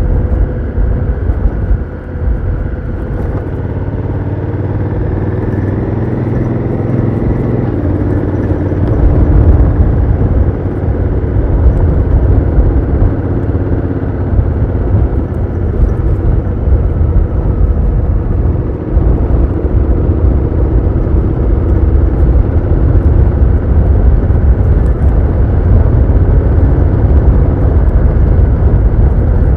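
Honda Africa Twin CRF1000L's parallel-twin engine pulling through its stock exhaust while riding. Its note rises about a quarter of the way through and it gets louder after that, over a heavy low rumble.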